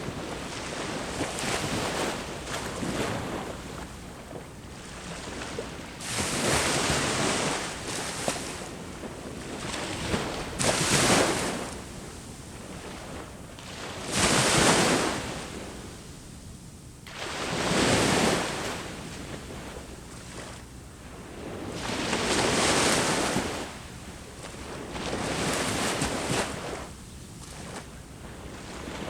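Ocean waves breaking on the shore, each surge swelling and falling away every three to four seconds, with some wind on the microphone.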